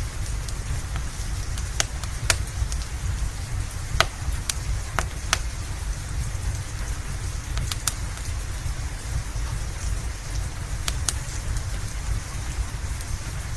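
Steady rain hissing over a low rumble, with the sharp, irregular pops and snaps of a crackling wood fire about once a second, at times two in quick succession.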